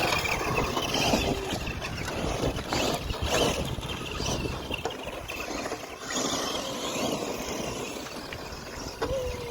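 Small electric RC cars driving over rough ground: the motors and gears whine, rising and falling as the throttle is worked.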